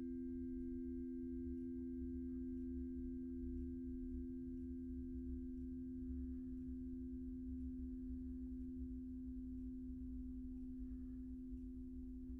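Sound-bath instruments ringing with two steady, pure low tones held together, slowly fading, over a low rumble.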